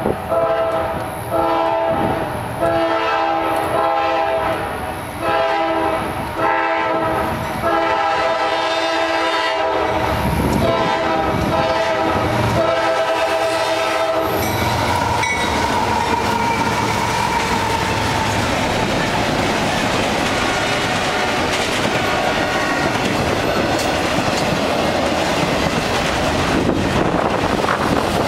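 Diesel freight locomotive horn sounding a series of blasts as the train approaches the crossing. About fourteen seconds in, the horn stops and the freight train runs past, with steady rumble and wheels clacking over the rail joints.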